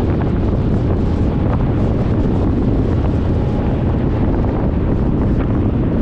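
Steady wind rush buffeting the microphone of a camera mounted on a moving Suzuki Burgman 400 scooter, with the scooter's running and road noise underneath.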